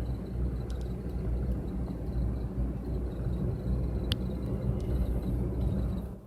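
Car driving, heard from inside through a dashboard camera: a steady low rumble of engine and road noise, with a few faint clicks and one sharper click about four seconds in.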